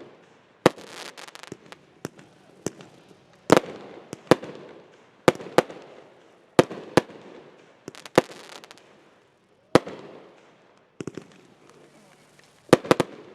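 Consumer fireworks going off: a string of sharp bangs, about one a second at uneven spacing, some followed by a short crackling fizz, with echoes trailing the louder reports.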